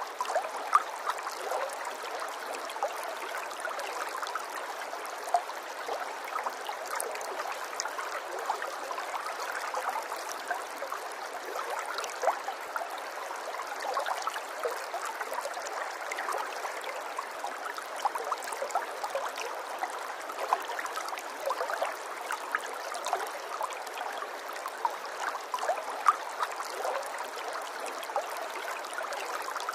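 A small stream of running water trickling and gurgling steadily, with many small splashes and drips.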